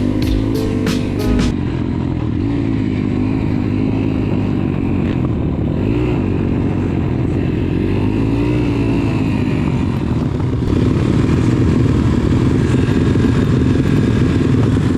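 Beat-driven music cuts off about a second and a half in. A pit bike's small single-cylinder four-stroke engine then runs, revving up and down, and grows louder near the end.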